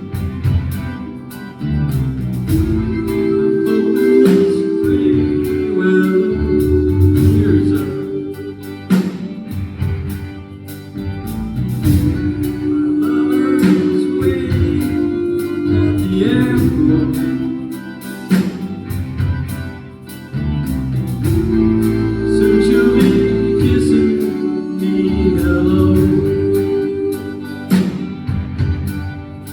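Live pop-rock band playing, with drums keeping a steady beat under long, held vocal harmony notes.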